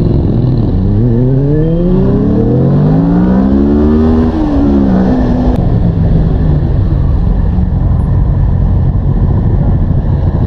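Motorcycle engine accelerating, its pitch rising steadily for about three and a half seconds, then dropping about five seconds in and running on at a lower, even pitch.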